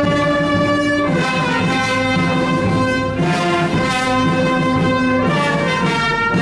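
Brass music with long held notes, the chord changing every second or two.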